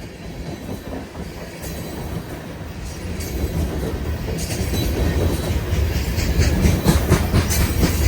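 Train approaching and growing steadily louder: a deep rumble with wheel clicks that come thicker and faster over the second half.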